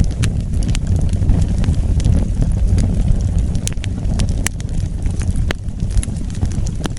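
Wood fire burning, with a steady low rumble of flames and scattered sharp crackles and pops from the burning wood.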